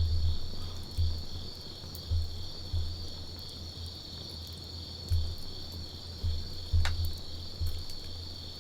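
Wood campfire crackling with scattered sharp pops, one louder pop about seven seconds in, over a steady high trill of crickets and uneven low rumbles.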